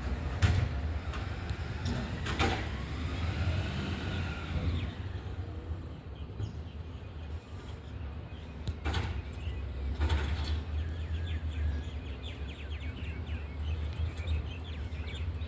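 Garbage truck running with a steady low engine rumble, with a few sharp knocks and clatters and, about two seconds in, a whine that rises and falls.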